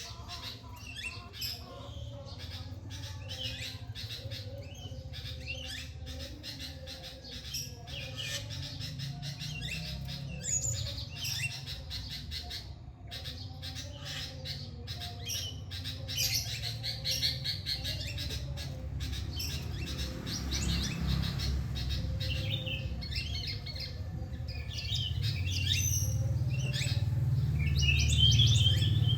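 Many small birds chirping, trilling and calling over one another in a morning chorus. A low rumble swells under the birdsong over the last few seconds.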